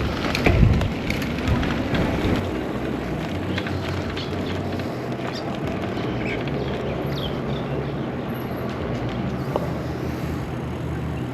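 Steady riding noise of an e-bike on a paved path, tyres rolling with wind, a few clicks and rattles near the start, and a low steady hum from about halfway in.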